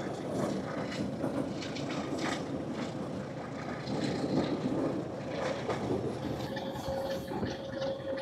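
Class 1400 diesel-hauled passenger train running along the track, heard through an open carriage window: a steady rumble with rapid rattles and clicks from the wheels and carriage. A steady high tone joins in about seven seconds in.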